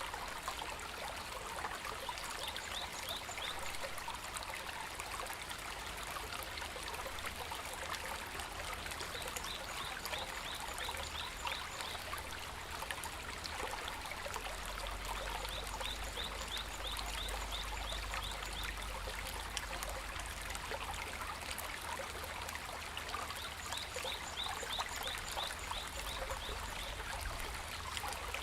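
Shallow river or stream babbling steadily over stones. A quick trilling series of high chirps from a small animal comes back four times.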